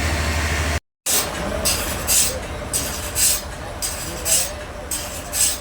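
A steady engine hum cuts off about a second in. It gives way to a saw cutting wood in regular rasping strokes, about two a second.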